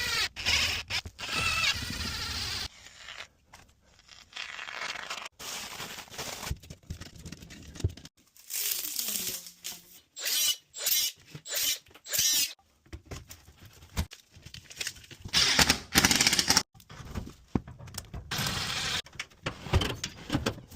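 Handling and tool noises from dryer vent installation work, heard as a string of short clips that start and stop abruptly.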